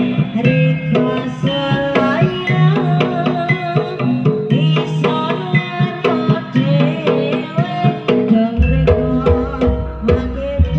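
Jaranan accompaniment music: rapid kendang hand-drum strokes under a wavering melody line, with a deep bass coming in about two-thirds of the way through.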